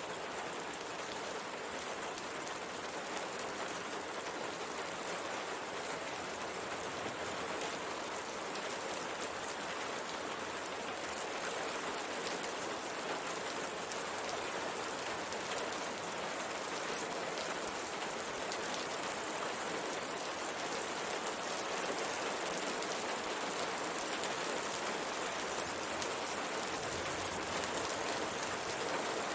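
Steady rain falling on a window pane: a dense, even hiss of many drops, growing slightly louder toward the end.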